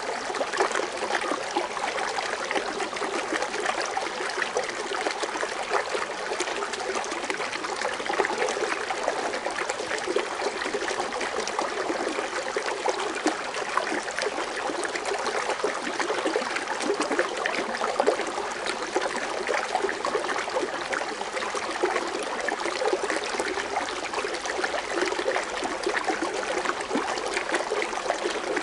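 Foaming water fountain: water splashing and trickling steadily without a break.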